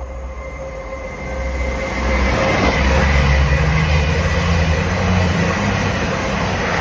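A train running through the station, growing louder over the first two seconds or so and then staying loud, with a deep rumble under it.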